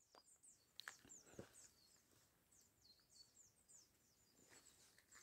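Faint, high-pitched chirping of small birds: many quick calls, one after another, with a few soft clicks in the first second and a half.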